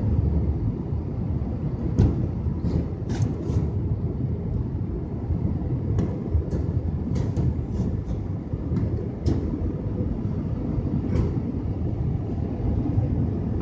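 Cabin noise inside a JetBlue Airbus A320 airliner during landing: a steady low rumble with scattered rattles and clicks throughout.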